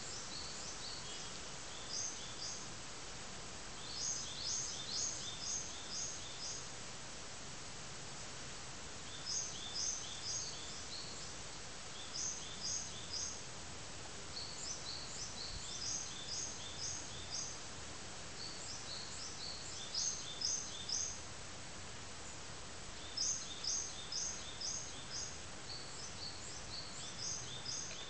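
Small birds calling in quick runs of short, high notes, repeated every few seconds over a steady faint background hiss.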